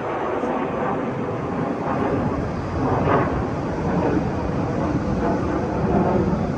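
Aircraft engine noise from a flying display, steady and growing slightly louder.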